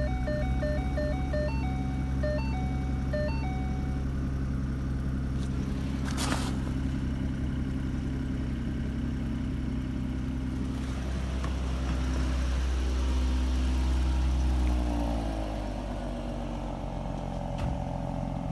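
2014 Ford Mustang's 3.7-litre V6 idling steadily just after starting. A series of short electronic beeps sounds over the first few seconds, a single click about six seconds in, and the engine note shifts and settles lower about fifteen seconds in.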